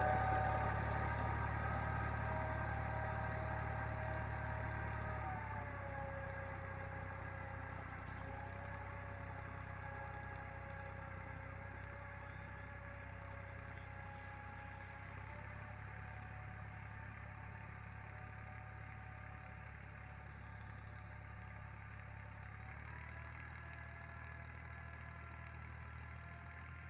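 Tractor engine running steadily and slowly fading, as if moving away. The engine pitch drops slightly about five seconds in and rises again near the end.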